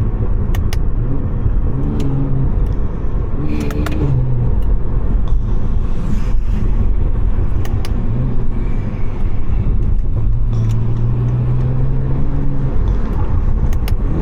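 Stage 2 tuned BMW 540i's turbocharged B58 inline-six running while the car is driven, its note climbing and dropping a few times with throttle and gear changes. A few sharp clicks sound over it.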